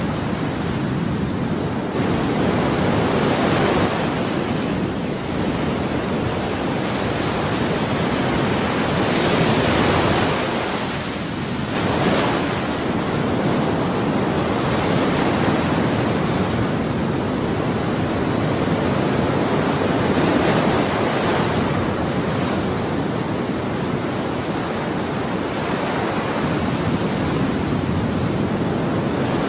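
Ocean waves breaking and washing on a shore, a continuous rushing surf that swells every few seconds as each wave comes in.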